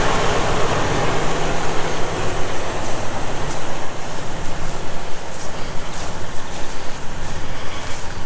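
Heavy diesel engine running steadily under load, with faint clicks or clanks over it in the second half.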